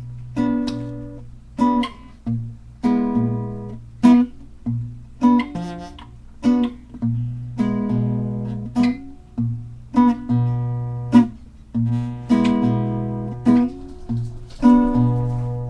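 Acoustic guitar strummed, a steady series of chords, each struck sharply and left to ring.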